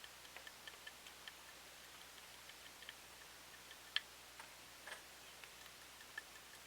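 Near silence with a faint hiss and many small, irregular ticks, plus one sharper click about four seconds in.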